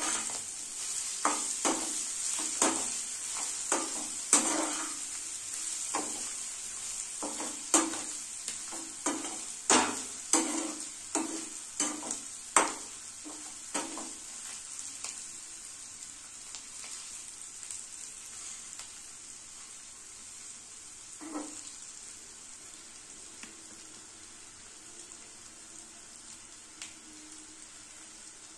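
Chicken livers sizzling as they fry in masala in a metal kadai, while a metal spatula stirs them and scrapes and clinks against the pan many times in the first half. The stirring then stops, apart from one more scrape a little past the middle, and the sizzle grows softer.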